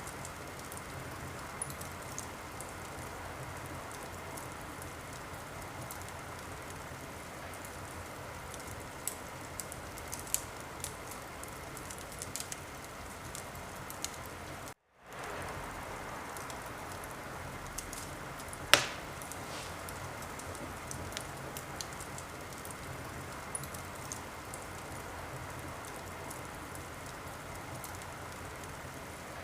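Wood fire crackling: a steady hiss sprinkled with small irregular pops, and one sharp, loud pop about two-thirds of the way through. The sound cuts out completely for a split second about halfway.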